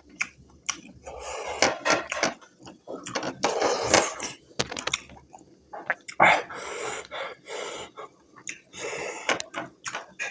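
Close-miked eating sounds of a person eating smoked buffalo meat curry: irregular wet chewing and slurping, with sharp mouth clicks and hissing breaths.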